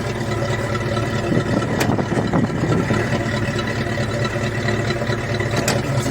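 ZIL-130 truck's V8 petrol engine idling steadily as it warms up, with a few sharp clicks over it.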